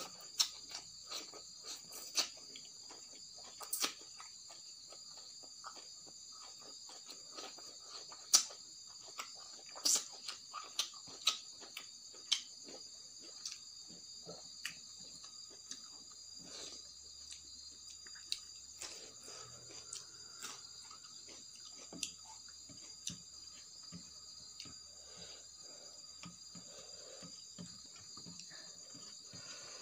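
Close-up eating sounds: sharp clicks and crunches of chewing boiled fiddlehead ferns and rice, densest in the first half. Behind them, crickets trill steadily.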